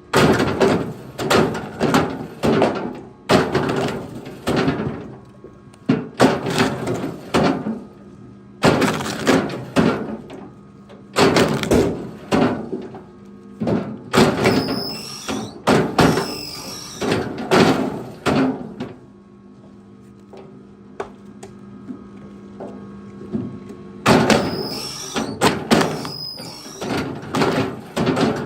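Chunks of firewood knocking and thudding against each other as they are thrown or stacked: irregular clusters of sharp wooden knocks with short pauses between them.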